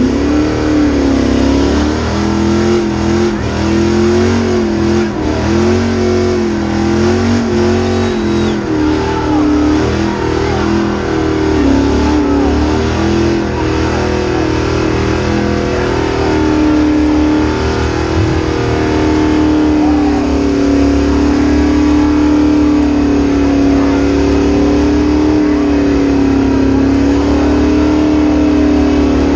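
Car engine revving hard for a burnout, its pitch rising and falling in repeated blips at first, then held steady at high revs for the second half as the tyres spin and smoke.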